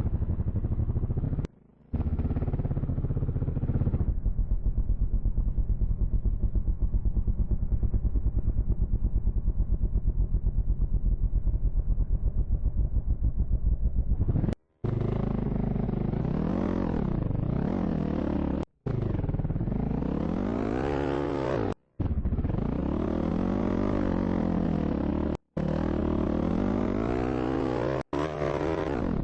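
Dirt bike engine revving up and down as it is ridden, its pitch rising and falling with the throttle, with a steadier stretch near the middle. The sound cuts out abruptly for an instant several times.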